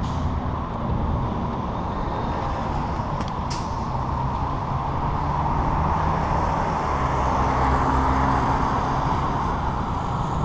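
Wind buffeting the microphone over the rolling noise of a bicycle riding a trail, with two short sharp clicks about three seconds in.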